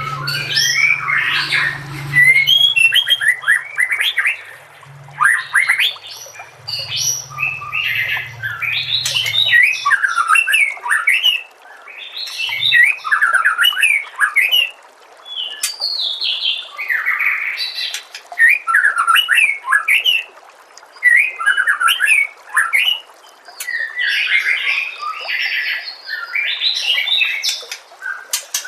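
White-rumped shama (murai batu) singing: rapid, varied phrases of whistles, trills and harsh chatter, each a second or two long, with short pauses between them.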